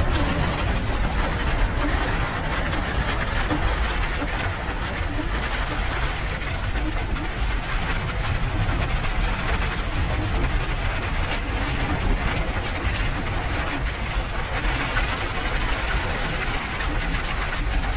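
Steady rain, an even hiss with a strong low rumble underneath.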